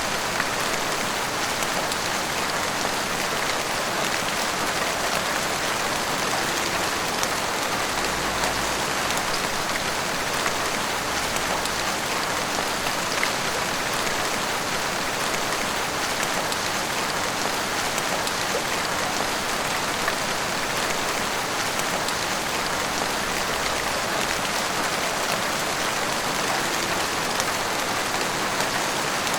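Heavy rain pouring steadily, hitting rooftops and the street.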